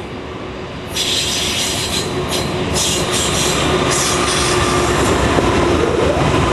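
Diesel locomotives of a BNSF freight train running past close by, growing louder as they approach. About a second in, a high metallic screech of wheel flanges squealing against the rails starts and comes and goes.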